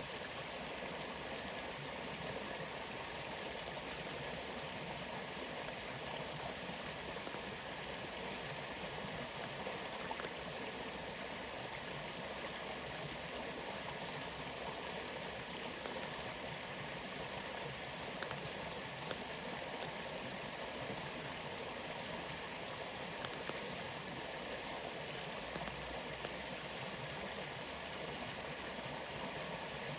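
Waterfall rushing steadily, with faint scattered ticks of falling drops.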